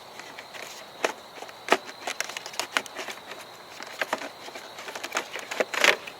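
Irregular clicks and knocks of plastic parts as a car's stock air intake housing is worked loose and lifted out by hand, with a louder clattering rustle near the end.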